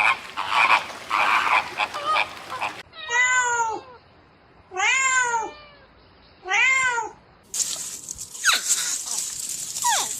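A domestic cat meowing three times, each meow arching up and then down in pitch, about two seconds apart. A separate rasping noise comes before the meows and a hiss follows them.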